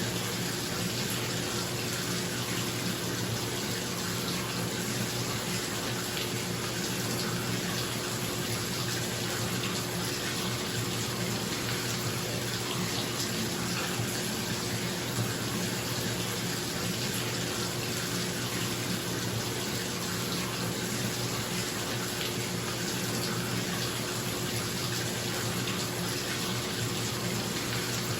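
Bathtub tap running steadily into the tub, with a bathroom exhaust fan humming beneath it.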